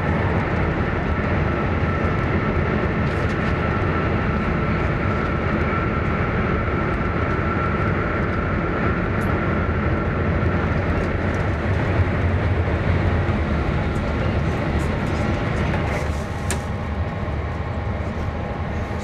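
Cabin running noise of an E1 series Max Shinkansen at speed in a tunnel: a steady dense rumble and rush, with a faint steady whine over the first half. The noise drops a little as the train comes out of the tunnel near the end.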